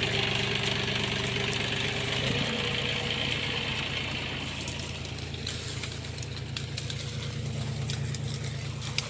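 John Deere tractor's diesel engine running steadily at a low, idle-like speed, with a slight change in engine pitch a couple of seconds in. It grows gradually fainter.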